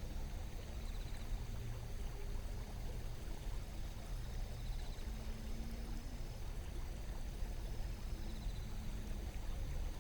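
Shallow river running over stones: a steady low rush of flowing water. A faint short high trill comes three times, a few seconds apart.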